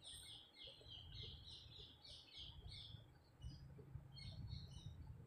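Faint chirping of small birds: quick runs of short high notes for about three seconds, a few more at about four seconds in, over a low rumble.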